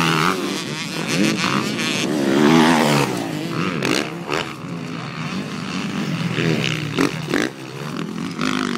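Motocross dirt bike engines revving hard and rising and falling in pitch as riders race past, loudest about two and a half seconds in, then dropping back to more distant engine noise.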